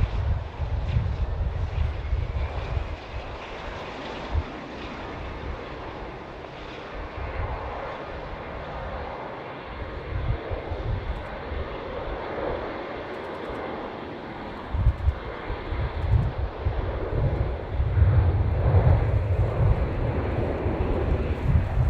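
Jet airliner engine noise: a continuous rumble and roar that eases off through the middle and builds up loud again over the last several seconds.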